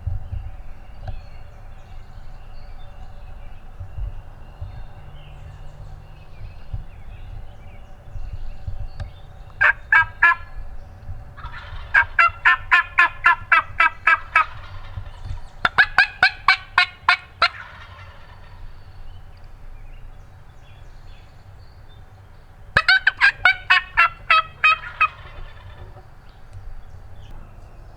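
Turkey calling: four runs of quick, evenly spaced notes, the longest near the middle and the last run near the end.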